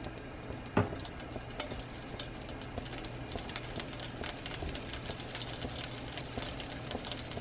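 Sliced sausages frying in butter in a pan, a steady sizzle with fine crackles, the pan not yet fully hot. A single light knock about a second in.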